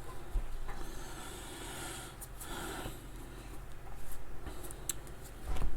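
Football trading cards being handled and slid against one another: soft papery rubbing, with a few light clicks and a small knock near the end.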